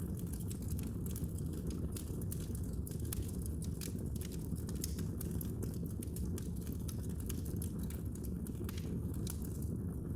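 Fireplace fire crackling: a steady low rumble of burning with frequent small pops and snaps scattered throughout.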